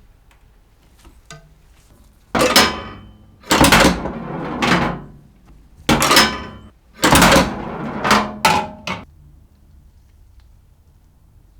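A series of loud mechanical clunks, about eight strikes, some in quick pairs, each ringing or rattling briefly as it dies away, spread over about seven seconds.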